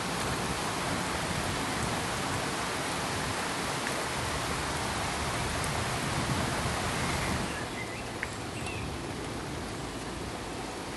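Steady rain, a dense even hiss, which eases and drops in level about seven and a half seconds in. After that a few faint chirps and drips come through.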